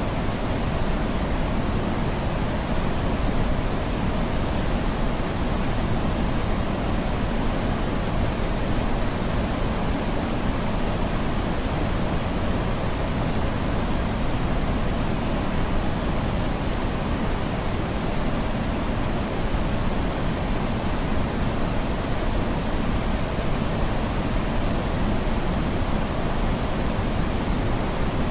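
Steady, unchanging noise, heavier in the low end than the high, like pink noise: a white-noise track of the kind played for focus or sleep.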